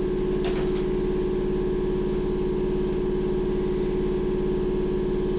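A steady machine hum with a strong, unchanging low-mid tone, and one faint click about half a second in.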